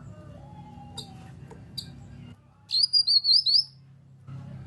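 Cucak kinoi singing one short burst of rapid, high, warbling chirps about two-thirds of the way in, over a steady low hum, with a couple of faint clicks before it.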